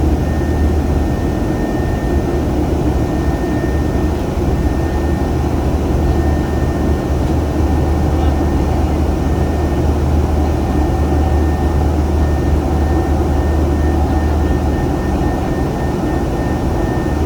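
Passenger airliner in flight: the steady engine and airflow drone inside the cabin, a deep rumble with a faint constant whine above it.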